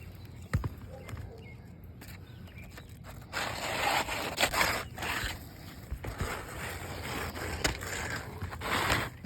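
Rough scraping and rustling on asphalt roof shingles as they are worked during a shingle repair, in uneven bursts from about three seconds in, with a sharp knock shortly after the start.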